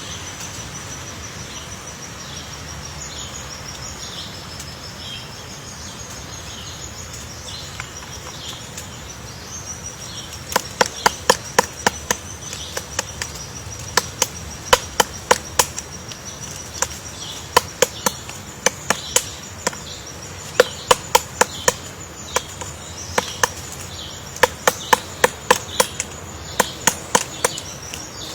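Woodpecker pecking into wood while excavating a nest cavity: sharp knocks in irregular clusters of a few strikes, starting about a third of the way in and continuing to the end. A steady high-pitched buzz, like insects, runs underneath.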